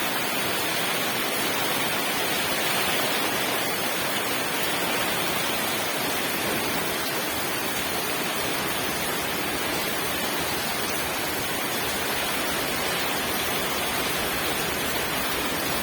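Steady rain falling, an even hiss without breaks or single drops standing out.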